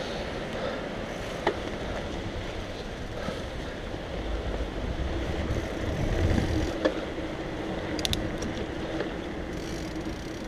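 Steady rolling noise of a mountain bike being ridden, with tyre rumble and a few sharp clicks and rattles from the bike.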